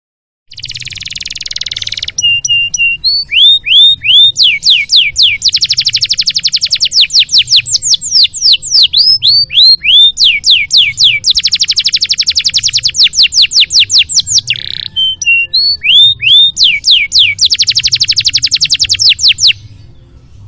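Domestic canary singing a full song: long runs of very fast repeated trill notes, broken by slower upward-sliding whistles, opening with a short buzzy phrase. The song stops about a second before the end.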